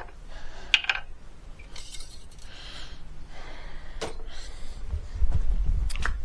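A few light metallic clinks and knocks, spaced out, with a faint hiss between them. A low rumble comes in about five seconds in.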